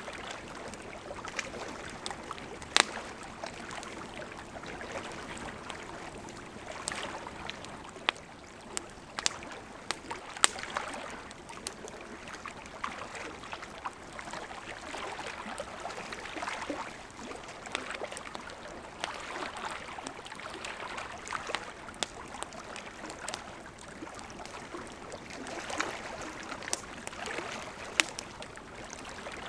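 Burning wood crackling: a steady hiss and flutter, with irregular sharp pops and snaps throughout and a few louder pops standing out.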